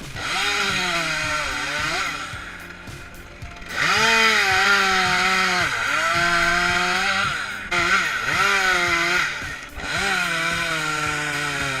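Two-stroke chainsaw cutting wood at full throttle in several runs, its engine pitch sagging as the chain bites and rising again as it clears, with short let-offs between cuts.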